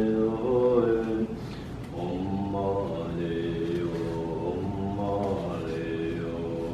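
Slow liturgical chanting for a deliverance rite for the dead. The voices hold long notes and slide between pitches, with a short dip a little after one second.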